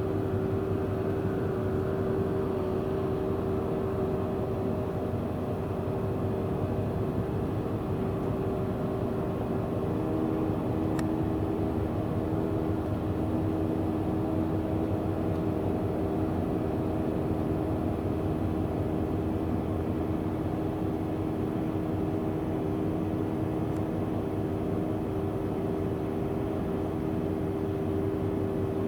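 Ferry's engines and machinery running with a steady drone and an even, unchanging hum.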